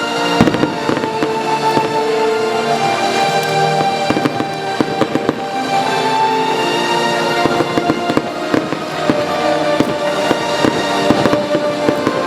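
Fireworks going off in a rapid series of sharp bangs and crackles, the loudest about half a second in and a dense run near the end, over music playing throughout.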